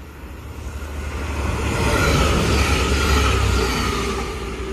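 Passenger train passing through the station at speed: a rumble with wheel and rail noise that swells to its loudest about two to three seconds in, then fades as it goes by.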